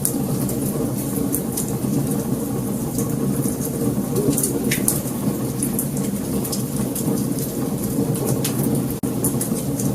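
Wood fire crackling: many small sharp pops and snaps over a steady low rumble of burning flames.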